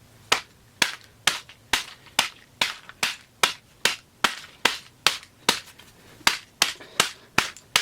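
Repeated sharp blows, a little over two a second and evenly spaced, striking a talking puppy toy to break it apart.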